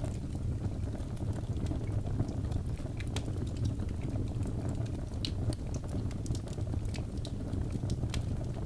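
Wood fire crackling in a fireplace: a steady low rumble of burning with many irregular sharp snaps and pops scattered throughout.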